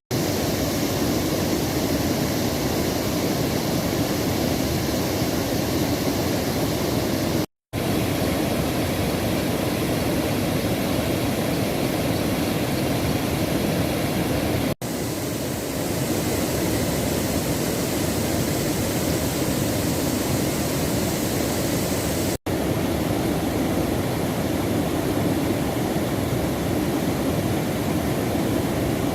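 Floodwater in the Palar river rushing past in a loud, steady roar of running water. It drops out briefly three times.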